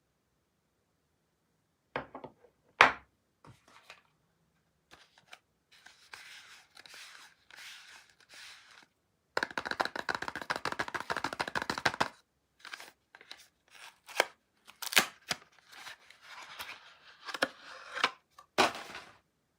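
Soap packaging being unwrapped by hand: a few sharp snaps and clicks, soft rustling, and a run of dense crackling tearing about halfway through, with short pauses between.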